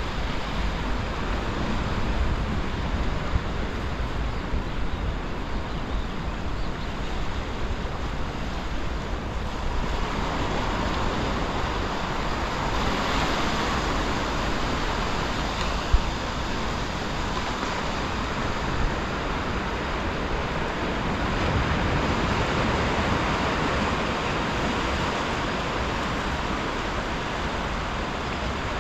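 Sea surf washing against the breakwater, a continuous rush that swells louder about ten seconds in and again past twenty seconds, with wind rumbling on the microphone. There is a single sharp click about halfway through.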